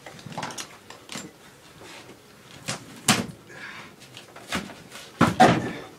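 Irregular knocks and bangs of flooring being pried up and handled during demolition, with a sharp bang about three seconds in and the loudest cluster of thumps near the end.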